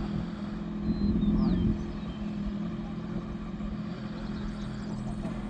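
Steady low hum of an idling vehicle engine, a little louder for a moment about a second in.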